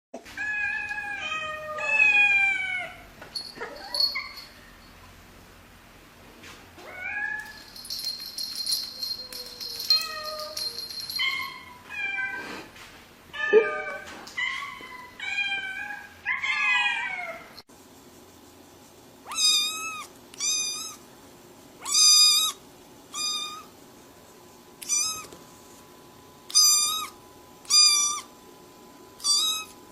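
Domestic cats meowing over and over, many of the calls falling in pitch. For a few seconds there is also a steady high-pitched whine. After an abrupt change about two-thirds of the way in, a run of short, higher-pitched meows comes roughly once a second.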